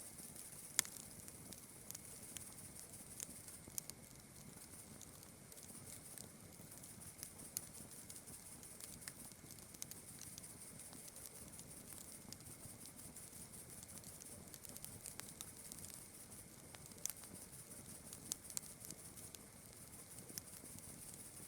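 Campfire crackling faintly, with scattered sharp pops and snaps, the loudest about a second in and a cluster near the end. A steady high chirring of night insects runs underneath.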